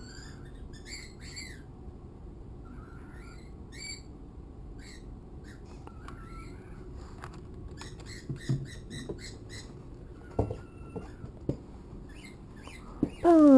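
Pet birds chirping faintly in short, scattered high calls, with a quick run of repeated notes a little past halfway. A few sharp knocks come in the second half.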